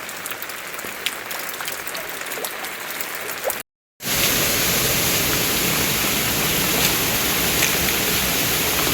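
Rain falling, with scattered drops ticking. About three and a half seconds in it cuts out completely for a moment, then returns as louder, denser heavy rain.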